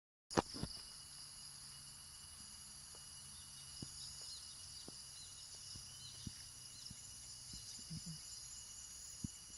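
Steady high-pitched chorus of forest insects, with a few faint chirps over it. A sharp click about half a second in and scattered soft knocks run through it.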